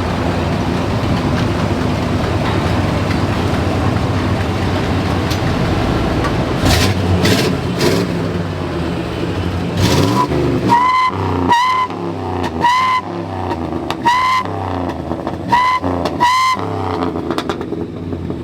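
A Suburban's V8 running through a freshly fitted single Flowmaster 40 series muffler, first a steady rumble as it comes up, then six quick throttle blips, each with a short whistle. The whistle is the sign of a small exhaust leak, which is to be fixed when the headers are replaced.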